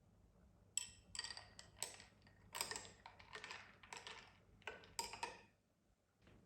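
A quick, irregular series of clicks and light clinks of hard objects being handled, some with a brief ringing tone, stopping about a second before the end.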